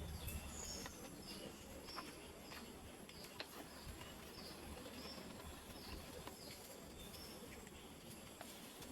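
A small bird calling over and over: short, high chirps that dip in pitch, about two a second, faint against quiet outdoor ambience.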